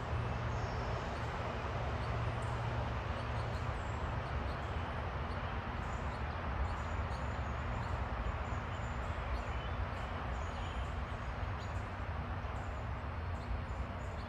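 Small birds chirping faintly, in short high notes scattered throughout, over a louder steady low rumble and hiss.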